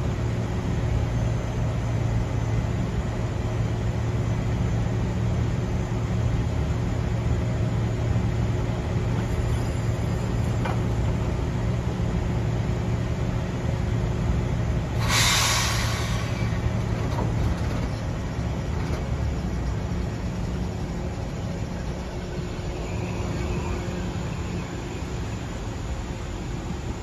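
Metro-North commuter train humming steadily, with a short sharp hiss of air from its brakes about fifteen seconds in.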